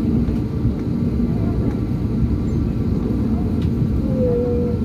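Steady low rumble of an airliner's engines and cabin air, heard from inside the cabin on the ground after landing, with a brief higher tone near the end.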